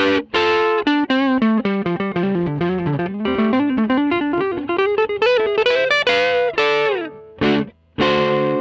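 Electric guitar played through an all-original 1957 Fender Vibrolux tweed amp with its 10-inch Jensen speaker: a few chord stabs, then a quick run of single notes that falls and climbs back up. The run gives way to more chords, a brief pause and a final ringing chord.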